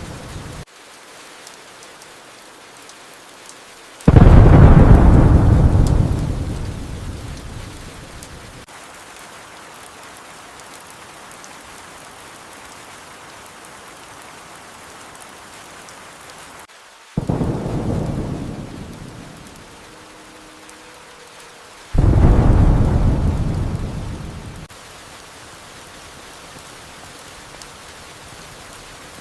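Steady rain with three thunderclaps. Each clap starts suddenly and rolls away over a few seconds. The loudest comes about four seconds in, and weaker ones follow near seventeen and twenty-two seconds.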